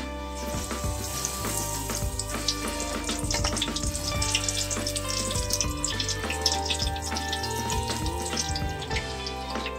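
Besan-battered eggplant slices (beguni) deep-frying in hot oil in a wok, a steady sizzle with fine crackling, over background music.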